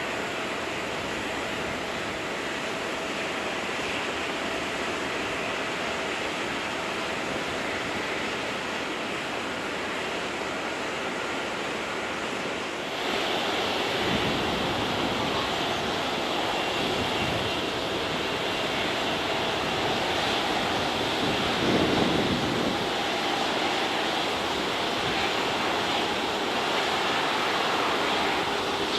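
Steady jet engine noise from a taxiing Boeing 737-800's CFM56 turbofans, with faint whining tones over a broad rush. About halfway through the noise abruptly gets louder and deeper.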